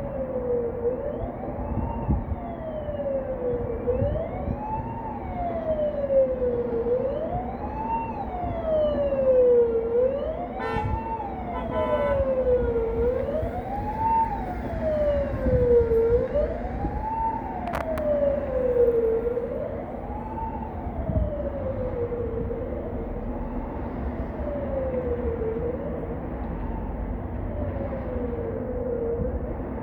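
Emergency vehicle siren wailing, its pitch rising quickly and falling more slowly about every two seconds, louder in the middle and fading toward the end, over the low rumble of road traffic.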